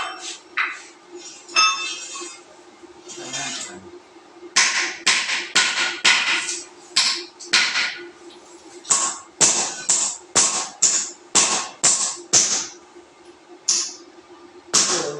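Sharp metallic knocks with a brief ring, in runs of about two a second, over a steady low hum.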